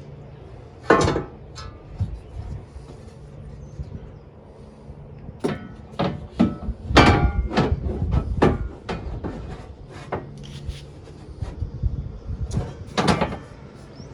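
Irregular knocks and clanks of metal shelf parts and bolts being handled and fitted into a roof-rack shelf mount. There is a flurry of them in the middle and single louder clanks with a short ring about a second in and near the end.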